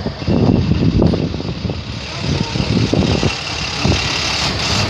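A motor vehicle engine running, an uneven low rumble.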